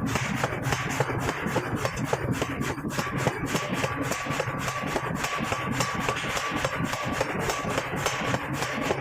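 Heavy metalworking machinery working round iron blanks: a fast, steady run of metal strikes, several a second, over a thin steady whine.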